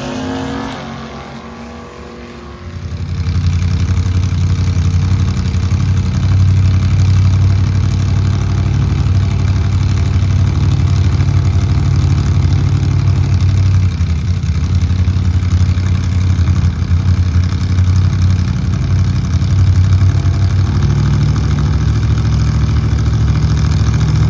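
A car engine's pitch falls away and fades in the first two seconds. From about three seconds in, a close engine runs loud and steady at a low, even note.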